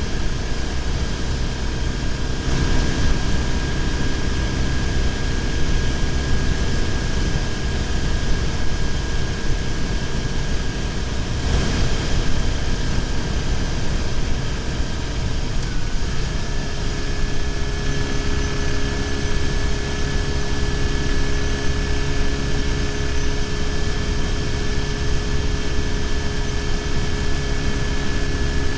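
BMW R1150GS boxer-twin motorcycle engine cruising at steady speed, heard from a bike-mounted camera with constant wind and road noise over it. The steady engine tones dip and settle at a slightly different pitch a little past halfway.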